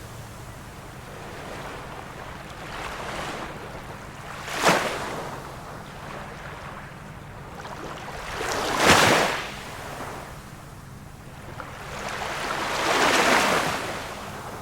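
Small waves of a calm sea washing in, four washes in about fifteen seconds: a soft one, a short sharp one a little under five seconds in, the loudest about nine seconds in, and a broad one near the end.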